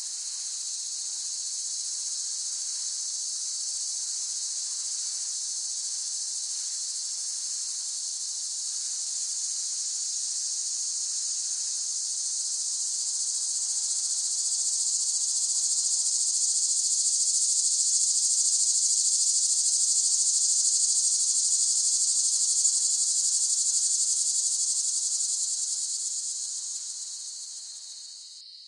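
Cicadas singing in a continuous high-pitched buzzing chorus. It swells to its loudest in the middle, then fades down near the end.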